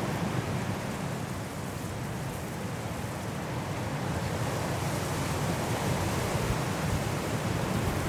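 Strong wind blowing through forest trees in a snowstorm, a steady rushing that eases a little about two seconds in and then builds again.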